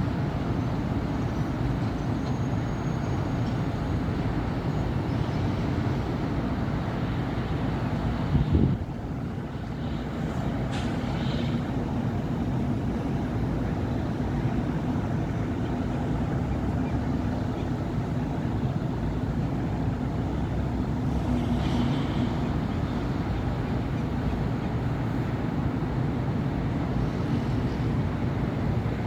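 Steady city traffic on a busy avenue: cars, buses and trucks passing and running. There is one sharp loud knock about eight seconds in, and brief faint high squeals around eleven and twenty-two seconds.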